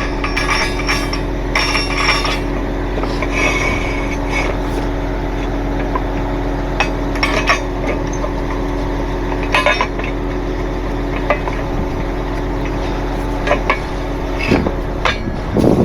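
A truck engine idles steadily while metal equipment clinks and clanks now and then, with a few sharper knocks about two, ten and fifteen seconds in.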